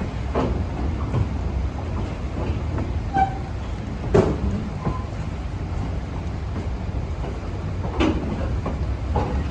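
Train running along the rails: a steady low rumble, with a few sharp knocks from the wheels and track about four seconds apart.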